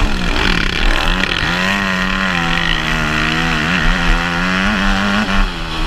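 Motocross bike engine revving hard, its pitch swooping up and down with the throttle and gear changes, then held high and wavering before it drops off near the end.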